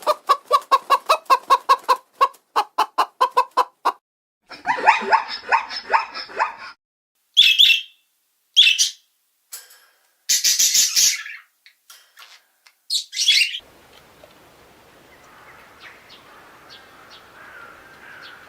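Bird calls: a run of rapid, evenly spaced clucking pulses for about four seconds, then a harsher call, then several short high squawks and chirps, and near the end only faint background chirping.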